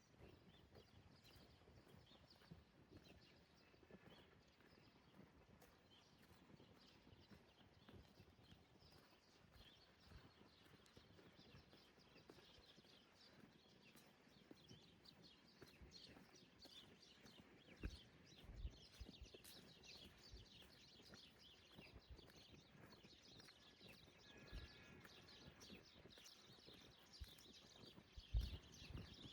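Faint outdoor morning ambience: soft, evenly paced footsteps with small birds chirping here and there. A couple of low thumps, one about two-thirds of the way in and a louder one near the end.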